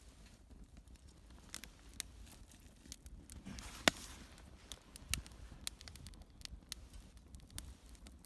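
Scattered sharp crackles and snaps from a small kindling fire being tended, with one loud snap about four seconds in.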